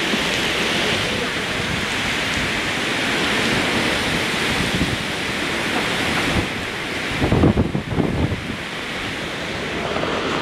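Heavy rain pouring down steadily in a storm. A little past the middle, gusts of wind buffet the microphone for a couple of seconds.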